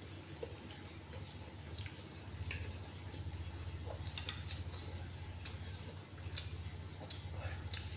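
Close-up eating sounds: chewing ghost pepper instant noodles, with scattered small wet mouth clicks over a steady low hum.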